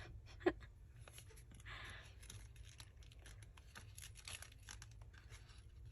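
Faint paper handling at a craft table: scattered small clicks and taps, with a short soft rustle of paper about two seconds in.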